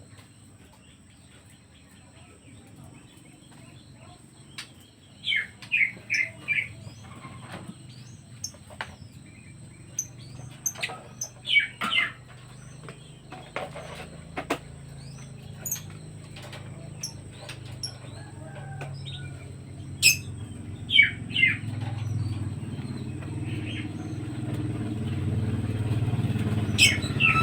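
Birds chirping in short quick runs of three or four falling notes, with scattered clicks. A low engine hum, typical of a passing motorcycle, grows steadily louder through the second half.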